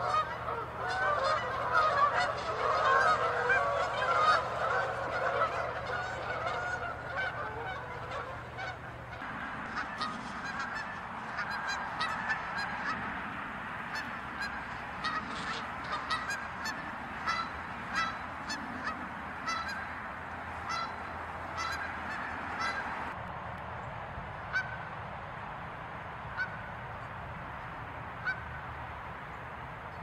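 Canada geese honking: a dense, loud chorus of many overlapping calls for the first several seconds, then from about nine seconds in, separate honks from a few birds, growing sparser near the end.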